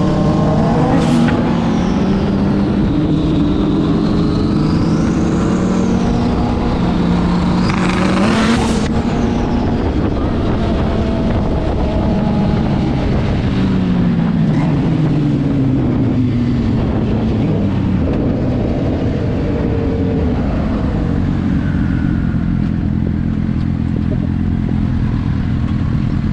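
Twin-turbo Lamborghini engine running and revving, its pitch rising and falling several times, with two short loud bursts about a second in and near eight and a half seconds.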